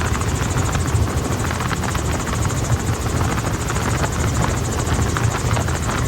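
Helicopter rotor and engine noise, steady and loud, with a pulsing low beat and wind rushing past, as heard aboard a doors-off tour helicopter.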